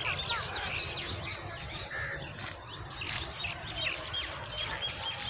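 Small birds chirping, many short falling calls repeated throughout, over a steady low background rumble.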